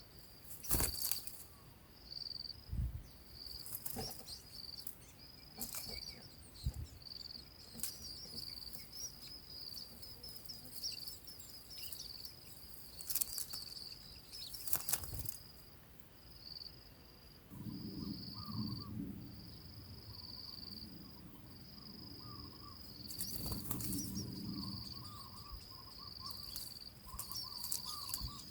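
Insects chirring in a steady, high, pulsing drone, broken by several sharp knocks or rustles and a low rumbling stretch in the second half.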